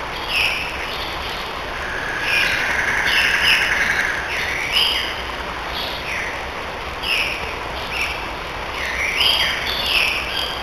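Forest songbirds singing: short whistled chirps and phrases repeating every second or so, with a longer held whistle about two seconds in, over a steady background hiss.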